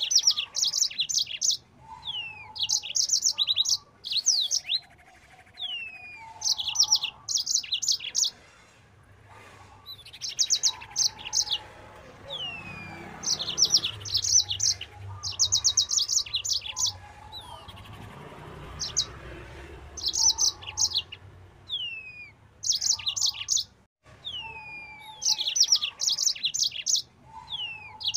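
Yellow-fronted canary (Mozambique canary) singing hard in repeated bursts. Each phrase opens with a falling whistle and runs into a fast string of sharp, high notes, coming every two to three seconds. A faint low rumble lies underneath in the middle stretch.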